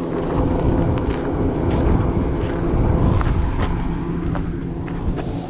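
A vehicle engine running with a steady low hum, with the rustle of a cloth bag being handled and a few light knocks.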